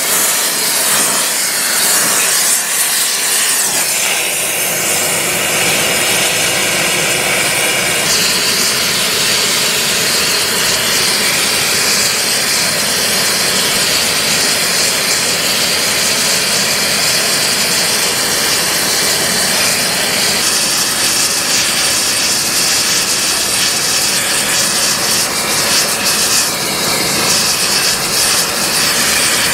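Gas preheating burner blowing into the thermite weld mould to heat the rail ends, a loud, steady hiss that turns sharper and brighter about eight seconds in.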